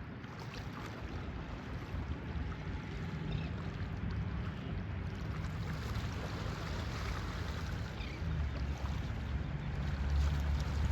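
Gentle surf washing along the shore, with wind buffeting the microphone as a low rumble that grows stronger near the end.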